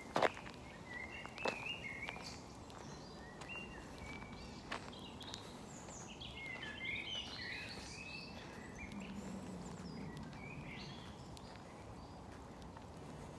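Wild songbirds chirping repeatedly in woodland, the chirps busiest in the middle, over a steady outdoor hiss. A few sharp clicks, the loudest right at the start.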